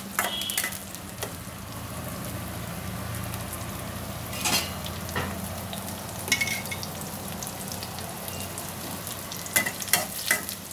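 Chopped onion, green chilli and curry leaves sizzling steadily in hot oil in a steel kadai. A metal spatula scrapes and clinks against the pan now and then as it stirs, most busily near the end.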